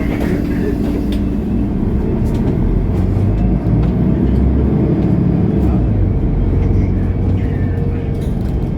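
Mercedes-Benz O530 Citaro bus under way, heard inside the cabin: the diesel engine and drivetrain run steadily, with their low pitch shifting as the bus drives, and light clicks and rattles from the body.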